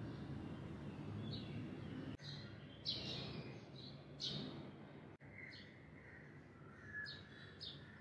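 Outdoor ambience of birds giving short, repeated high calls and chirps every second or so, with a few softer warbled notes near the end, over a steady low background rumble.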